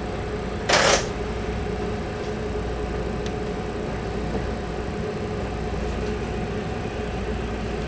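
JR 313 series electric train standing at a platform, heard from behind the driver's cab: a steady equipment hum with a few faint steady tones. About a second in, a short loud burst of hiss cuts in and stops, with a few faint ticks later on.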